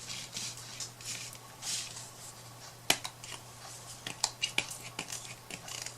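Pump spray bottle spritzing pink paint onto a wooden craft piece in several short hissing puffs, followed by a run of sharp clicks and taps from handling the bottle and piece.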